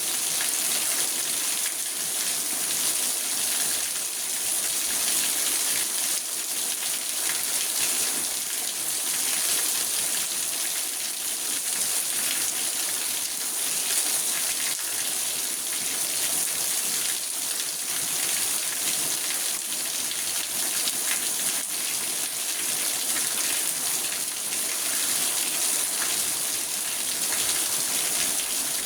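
Steady rain drumming on a car's roof and windows, heard from inside the car, a dense patter of many small drop impacts.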